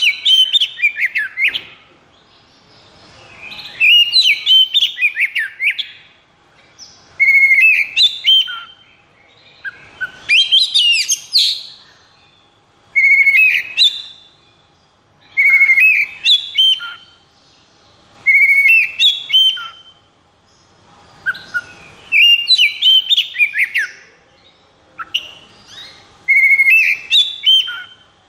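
Oriental magpie-robin (kacer) singing loud, varied phrases of whistles and trills, each lasting a second or two with short pauses between, about a dozen phrases in all.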